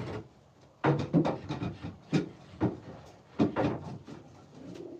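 A handful of uneven wooden knocks and bumps, like a wooden nest box or its door being handled, starting about a second in.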